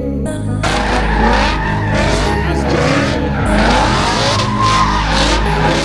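Car doing a burnout: tyres squealing and skidding over the running engine, starting about half a second in and going on without a break.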